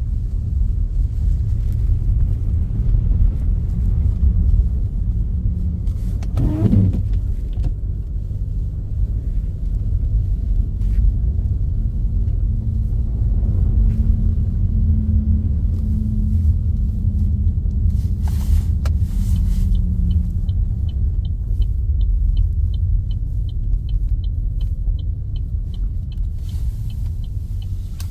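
Car driving, a steady low rumble of road and engine noise. In the second half a quick regular ticking, about three a second, runs for several seconds.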